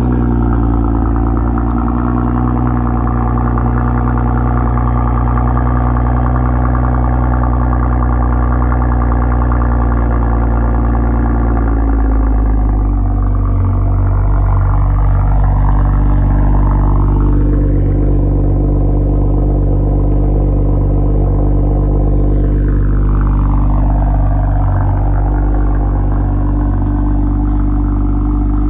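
BMW X3 M40i's turbocharged 3.0-litre inline-six, fitted with a custom exhaust, idling just after a cold start. It holds a raised fast idle, then about twelve seconds in drops to a lower, steady idle note.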